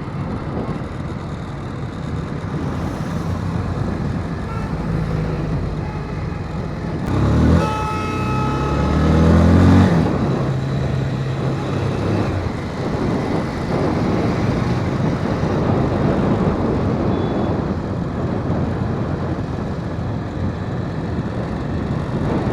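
Motorbike riding on a road: the engine runs under steady wind and traffic noise. About seven seconds in a vehicle horn sounds briefly, and an engine rises in pitch for a couple of seconds.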